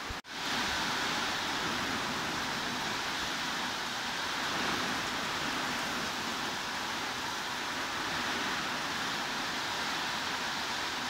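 Steady heavy rain, an even hiss of many drops with no single impacts standing out. It cuts out for a split second about a quarter second in, then comes straight back.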